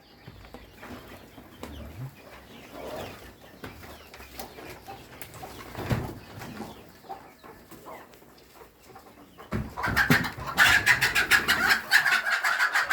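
Laying hens clucking faintly, then, near the end, a loud burst of squawking and fast flapping as the hens are startled off their nests.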